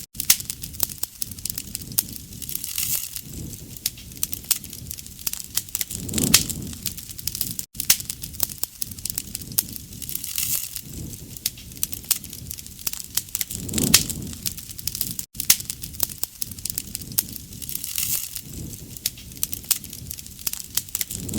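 Wood fire crackling steadily, with many sharp pops and snaps and a soft whoosh that swells every few seconds.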